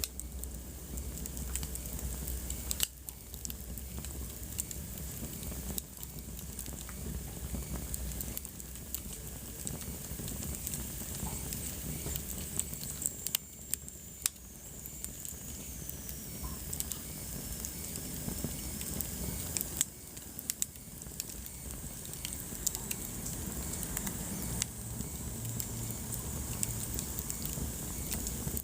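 Wood fire burning in a fireplace: a steady low rumble and hiss with irregular crackles and pops. A faint high whistle drifts down in pitch around the middle.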